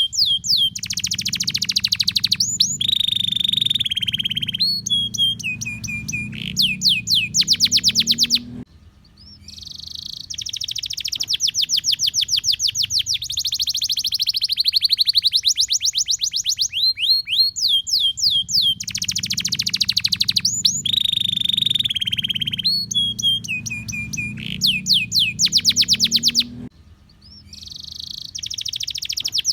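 Domestic canary singing long, fast rolling trills and chattering phrases, the kind of extended song kept as a training recording for other canaries. The song breaks off abruptly twice for a moment, and the same sequence of phrases comes round again about every 18 seconds, as in a looped recording.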